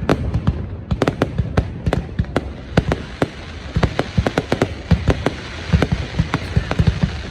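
Aerial fireworks bursting in quick, irregular succession: many sharp bangs, several a second, over a continuous low rumble of further explosions.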